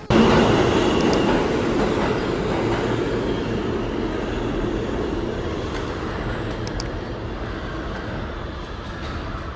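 Steady running noise of a train in motion, coming in suddenly at its loudest and easing off slowly, with a few faint clicks.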